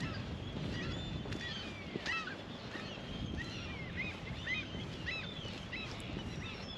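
Birds calling outdoors: many short, quick chirps overlapping throughout, over a low rumble.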